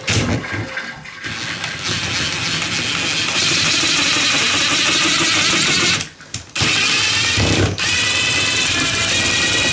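Power drill running under load, driving screws through a toilet flange into the floor to anchor it. The motor runs steadily, stops briefly about six seconds in, then starts again.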